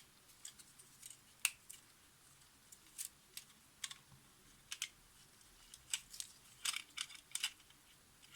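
Faint, irregular small clicks and ticks from small camera parts and tools being handled, about a dozen light taps spread out with a quick cluster near the end.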